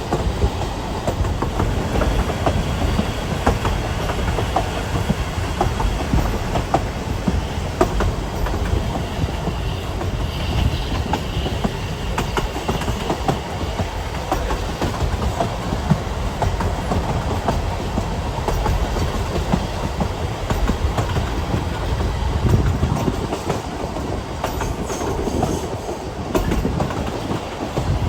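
Narrow-gauge Ffestiniog Railway train running along the track: a steady rumble with the clickety-clack of wheels over rail joints, and a faint high wheel squeal for a few seconds about ten seconds in.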